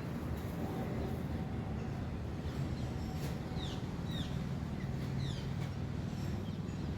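Birds calling with a few short, downward-sliding chirps, several of them from about three seconds in, over a steady low rumble of distant traffic.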